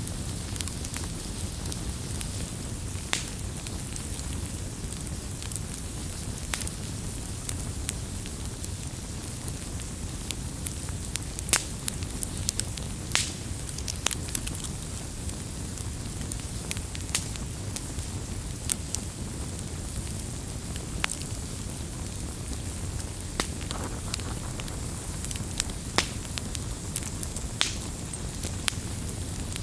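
Firewood burning: a steady low rumble of flame with irregular sharp crackles and pops from the wood.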